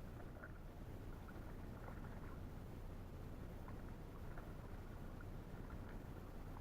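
Faint water sounds from paddling an inflatable canoe: small drips and light splashes scattered over a low steady rumble.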